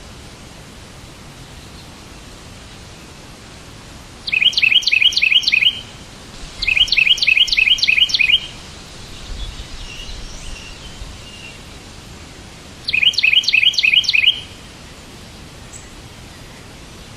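A bird singing three bursts of rapid, repeated chirps, about four to the second, over a steady hiss. Fainter, scattered calls come between the second and third bursts.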